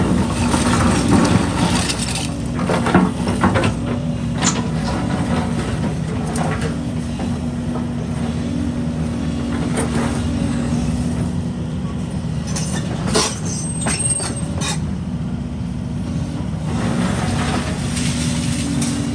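Diesel engine of heavy earthmoving machinery running steadily, with scattered clanks and knocks at irregular moments through it.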